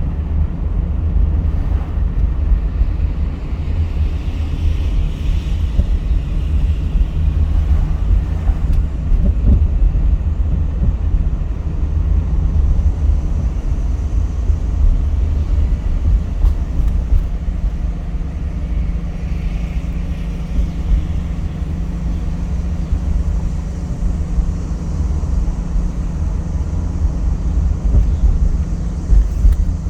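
A car driving along, with a steady low rumble of tyres and engine.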